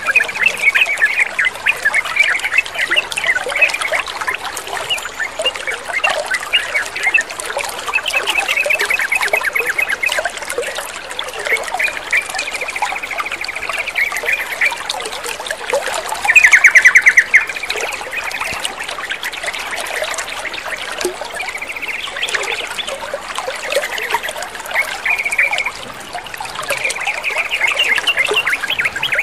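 Yellow-vented bulbuls calling and chattering in short repeated phrases over steadily trickling water, with one loud rapid trill a little past halfway.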